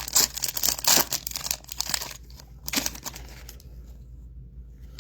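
Crinkling and tearing of a foil trading-card pack wrapper being torn open, dense for about two seconds, with one more short crinkle near the three-second mark before it goes quiet.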